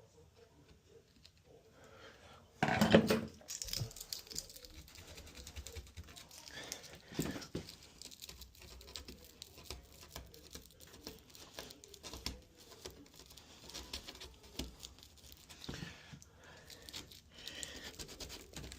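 Hands handling small lock hardware and tools: scattered clicks, rustling and crinkling, with one loud knock about three seconds in.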